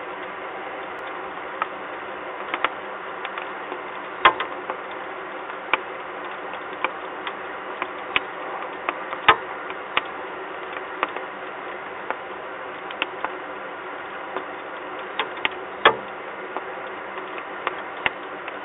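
Rain falling on a nest-box webcam: a steady hiss with irregular sharp ticks of drops striking the box and its metal grating, a few louder than the rest. Heard through the webcam's microphone, which cuts off the high end.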